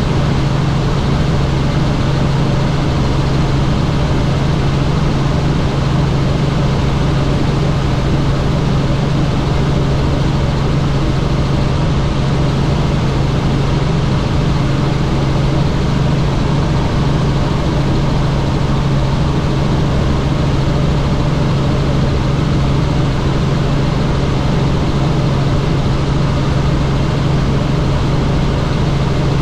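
Helicopter running with a steady, even drone and a strong low hum, the continuous rotor and engine noise heard on board.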